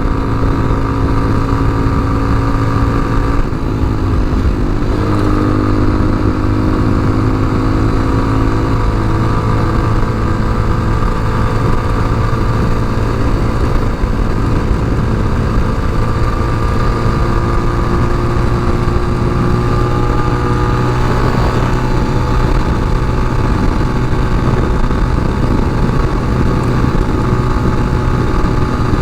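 Tao Motor TBR7 dual-sport motorcycle's engine running steadily under way. The engine note drops about three and a half seconds in, then holds steady, rising gently again later on.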